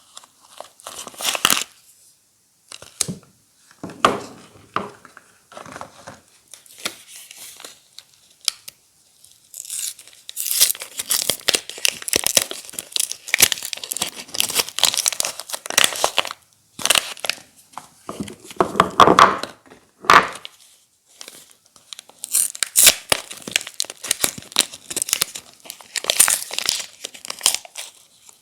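Soap bar wrappers crinkled and torn open by hand: irregular rustling and tearing, sparse at first and nearly continuous from about a third of the way in.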